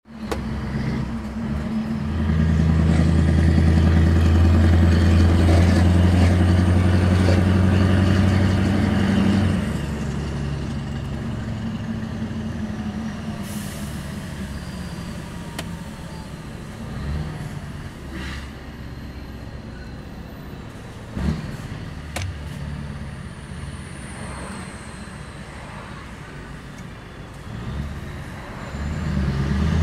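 Scania R500 truck's V8 diesel engine running with a deep, steady note. It is loud from about two seconds in until about ten seconds in, then drops to a quieter, lower drone with a couple of sharp clicks, and swells again at the very end.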